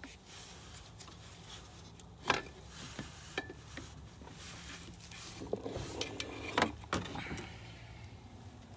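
Scattered clinks and knocks of metal bolts and tools being handled, the two sharpest about two seconds in and near the end, over a steady low hum.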